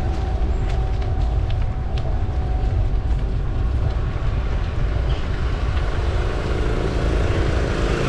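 Steady low rumble of wind on the microphone and rolling tyre noise from a moving bicycle, with a few faint ticks.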